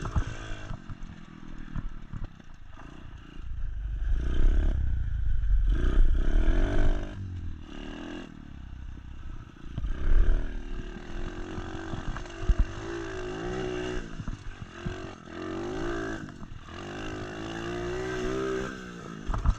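SSR 125 pit bike's small single-cylinder four-stroke engine revving up and down as the bike is ridden, with clattering and heavy low rumbles about four to seven seconds in and again around ten seconds.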